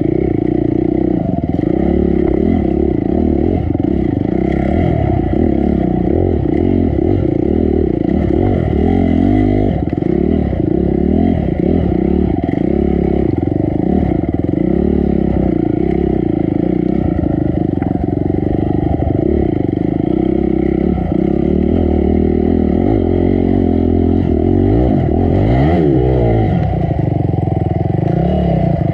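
Honda CRF250 dirt bike's four-stroke single-cylinder engine running continuously, its pitch rising and falling as the throttle is opened and closed.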